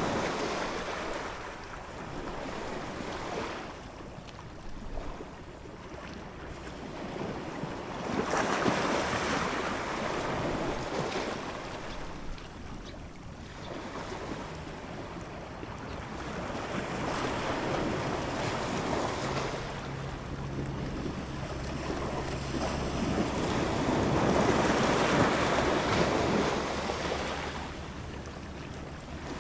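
Ocean waves breaking and washing in, swelling and ebbing in slow surges several seconds apart.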